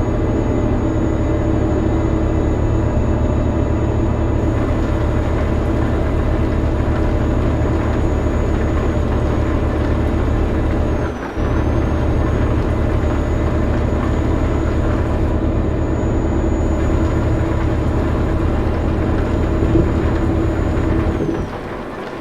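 Truck engine running steadily, a low drone with a faint high whine above it. The sound dips for a moment about halfway through and drops away near the end.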